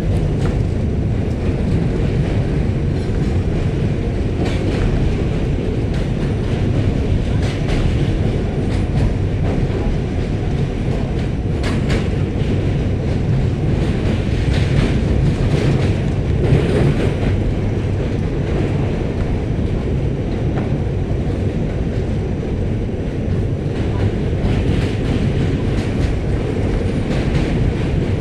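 New York City subway Q train running, heard from aboard: a steady loud rumble of the car with scattered clicks from the wheels over the track.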